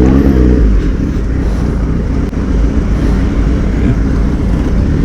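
Motorcycle engine running while riding, with wind and road noise; the pitch rises briefly near the start, then the revs drop and the engine note turns rough and less distinct until it picks up again near the end.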